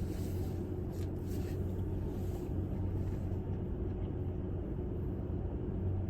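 Steady low rumble of a car idling, heard inside the cabin, with a constant low hum.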